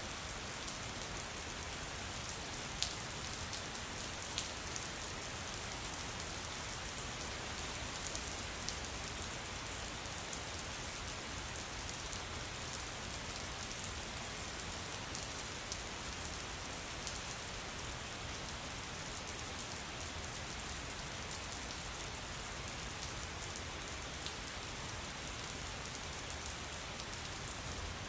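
Steady rain falling, an even patter with single drops ticking out now and then; two sharper drips stand out a few seconds in.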